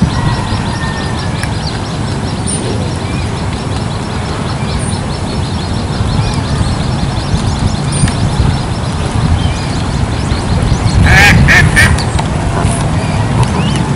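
Coot chicks peeping and calling, with a cluster of louder calls about eleven seconds in, over a steady low rumble.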